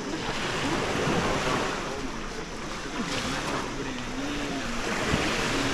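Sea waves washing on the shore, with indistinct voices of people in the background.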